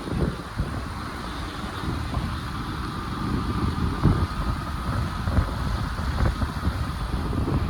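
Wind buffeting the microphone in uneven gusts over the steady noise of a moving vehicle.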